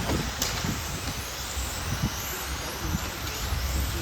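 Remote-control racing cars running on the track: faint high whines rising and falling as they pass, over a steady low rumble, with a sharp click about half a second in.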